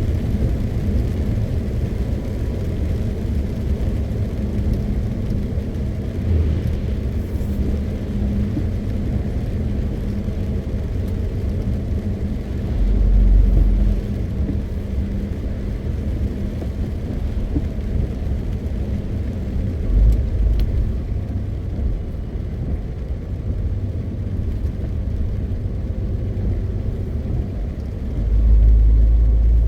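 MAN TGX 520 truck's six-cylinder diesel engine and road noise while driving, a steady low rumble. Three deeper low surges swell up briefly: about 13 seconds in, around 20 seconds, and again near the end.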